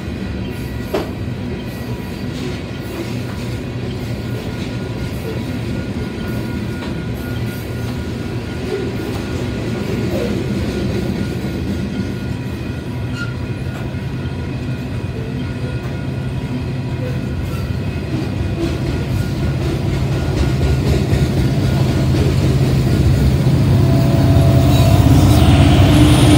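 Freight train of covered hopper cars rolling past at a grade crossing, a steady rumble with wheel clatter. Over the last several seconds it grows louder as Union Pacific diesel locomotives come up, and their engine drone takes over.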